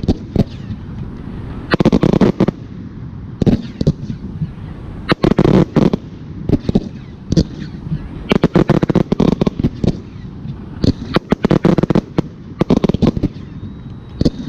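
Aerial firework shells bursting, in clusters of sharp bangs and crackles that come every second or two.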